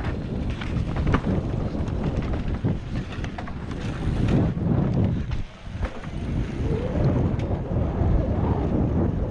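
Wind buffeting a GoPro microphone as a mountain bike rides down a dirt trail, a steady low rumble with scattered knocks and rattles from the bike over rough ground. The noise drops briefly about five and a half seconds in.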